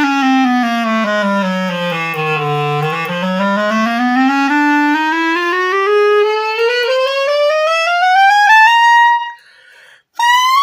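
Strasser grenadilla wood clarinet played in a scale, stepping down to its low notes and then climbing steadily note by note up through the registers to a high note, with a short break and a new high note near the end. The notes speak cleanly across the range: the freshly repadded instrument now plays.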